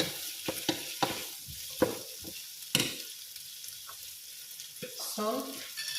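Carrots, potatoes and green beans sizzling in a pan, with a utensil clicking and scraping against the pan as they are stirred, several sharp knocks in the first three seconds.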